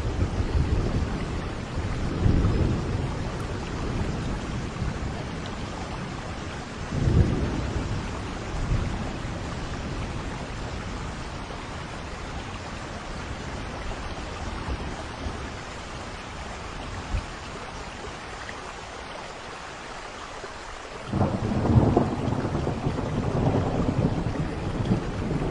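Steady rain with thunder rumbling: low rolls near the start and about seven seconds in, then a louder rumble breaks in suddenly near the end.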